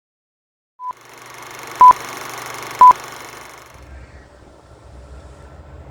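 Two loud, short electronic beeps about a second apart over a hiss, then a low diesel rumble from a Class 68 locomotive's engine sets in for the second half.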